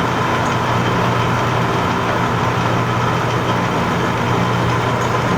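Clausing 5914 metal lathe running under power, a steady hum with a constant higher whine above it. It is driven by a 2 hp three-phase motor through a hydraulic variable-speed drive.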